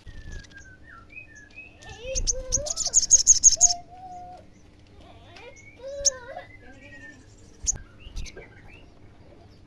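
Olive-backed sunbird singing in full 'gacor' form: a fast, high chattering trill about two seconds in, with scattered sharp chirps and lower whistled notes around it.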